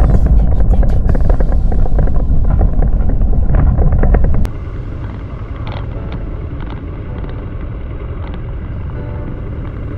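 Motorcycle on the move: engine and rushing wind on the microphone, loud and gusty for the first half, then dropping suddenly to a quieter, steadier ride sound about halfway through.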